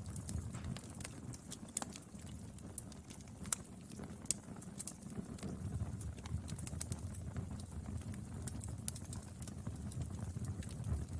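Burning firewood crackling and popping: frequent irregular sharp snaps, a few louder than the rest, over a steady low rumble of the fire.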